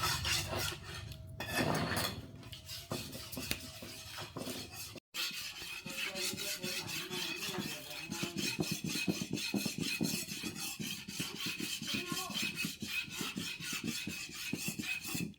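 Metal clinking and scraping in quick repeated strokes, several a second, typical of hand work on metal parts; the sound briefly cuts out about five seconds in.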